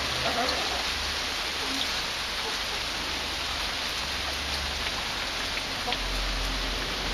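Heavy rain falling steadily in an even hiss, with faint scattered drop ticks; a low rumble grows stronger near the end.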